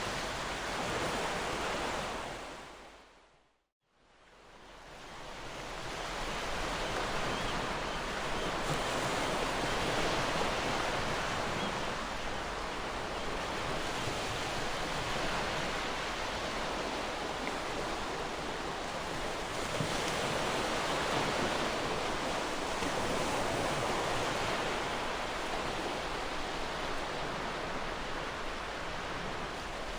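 Gentle ocean waves washing on a shore: a steady wash of surf with slow swells. It fades out to silence about three and a half seconds in and fades back up over the next two seconds.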